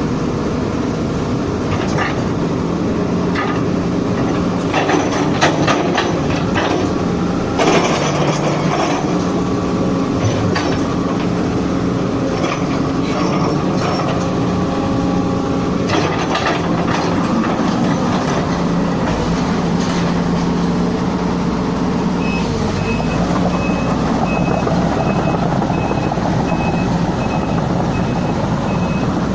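Sumitomo hydraulic excavator's diesel engine running as its functions are worked, its pitch shifting with load, with clicks and knocks in the first eight seconds. About three-quarters of the way in, its travel alarm starts beeping steadily, about three beeps every two seconds.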